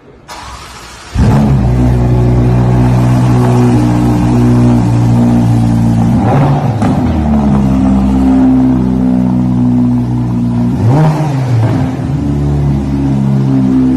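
Ferrari twin-turbo V8 on a straight-piped exhaust, coming in loudly about a second in and then running steadily at a fast idle, with a short blip of the throttle near the end.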